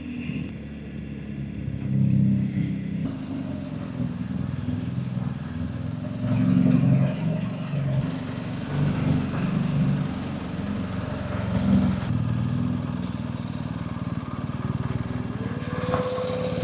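BMW GS Adventure motorcycle under way, its engine note swelling and easing with the throttle over uneven loudness, with a rushing noise above it.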